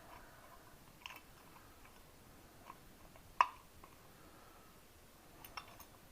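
Small metal parts handled on a bench while bolts are tried in freshly drilled holes in a starter housing: a few light clicks, with one sharper click a little past halfway.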